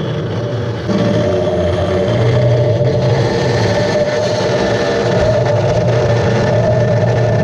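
Power saw cutting steel tubing: a steady motor whine that gets louder as the blade bites in, about a second in.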